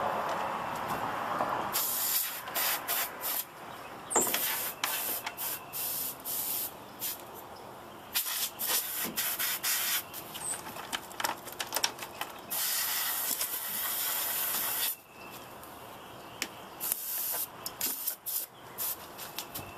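Compressed air blown in repeated bursts to dust out a computer, a hiss in many short puffs and one longer blast of a couple of seconds past the middle.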